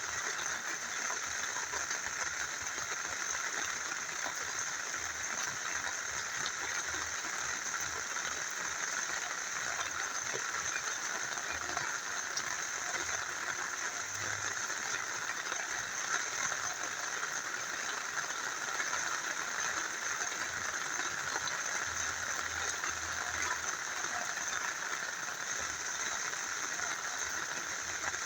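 Steady rain falling together with a small river flowing: an even, unbroken hiss of water.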